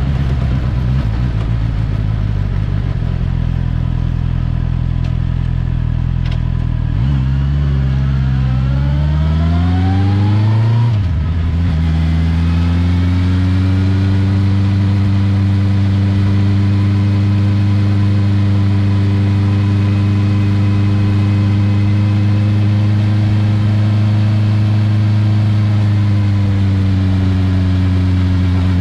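Honda CB650R's 649 cc inline-four engine and exhaust running low, then the revs rise smoothly over about four seconds, drop suddenly and settle into a steady higher speed, easing off slightly near the end.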